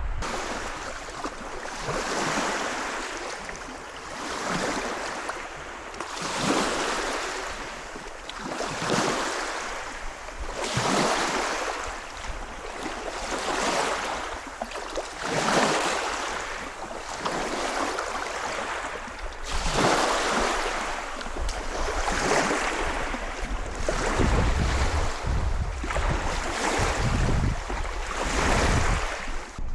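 Rushing water noise that swells and fades in regular surges about every two seconds, over a steady low rumble.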